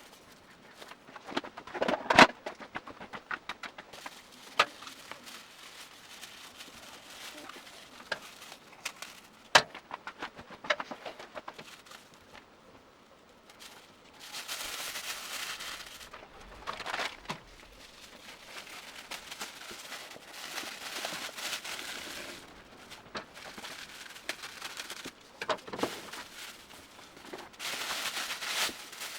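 Workshop handwork on a motorcycle exhaust: scattered sharp knocks and clicks of tools and metal parts, the loudest about two seconds in and near ten seconds, and three stretches of steady hissing noise in the second half.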